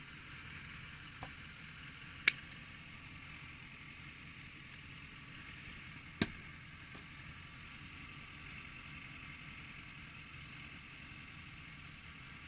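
Campfire burning: a steady hiss with two sharp pops about two and six seconds in, and a fainter one just before the first.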